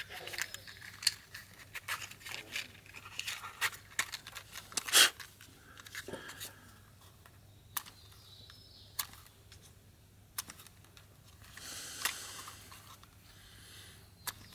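Scattered clicks and rustling of objects being handled, with one louder rasp about five seconds in.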